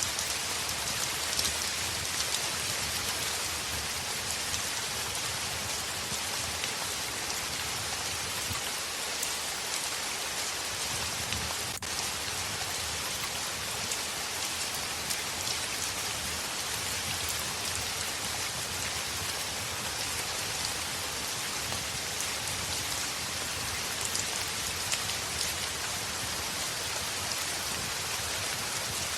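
Heavy rain falling on a window: a steady, even hiss with many small drop taps scattered through it.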